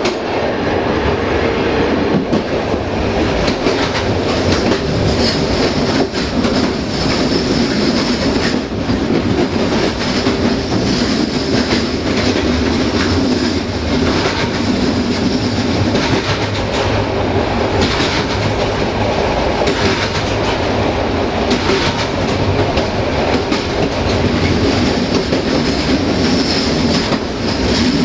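Passenger train running along the track, heard from the last coach: a steady rumble of wheels on rail with frequent clicks and clatter from rail joints.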